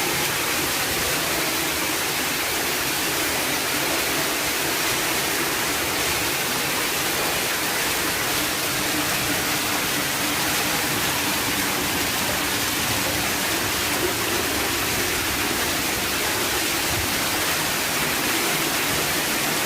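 Heavy rain with rainwater pouring down a flight of stairs like a waterfall: a steady, unbroken rush of water.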